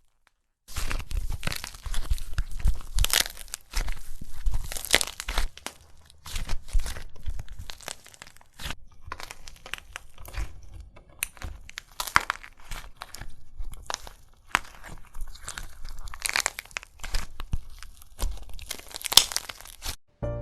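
Close-up crackling, crunching and tearing of a soft craft material being squeezed and pulled apart by hand, in uneven crackly bursts. A short silent gap comes just after the start.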